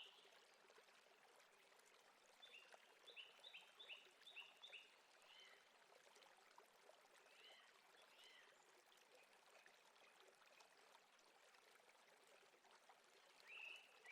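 Faint nature ambience: birds calling in quick runs of short, falling chirps over a soft, steady hiss like flowing water.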